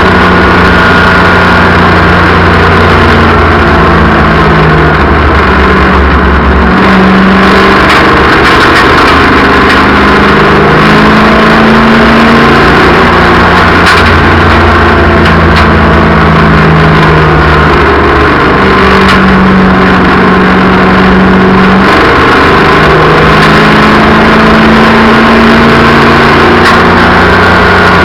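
Race cars running laps on an oval track, their engines loud and constant, with several engine notes rising and falling against each other as the cars accelerate and lift.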